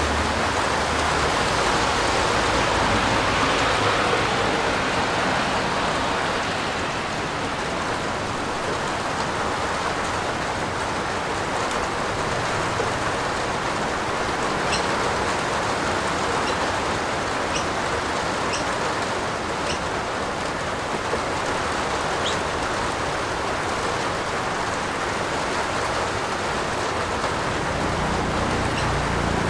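Steady, fairly loud rain falling, an even rushing hiss with a few distinct drop ticks in the middle stretch.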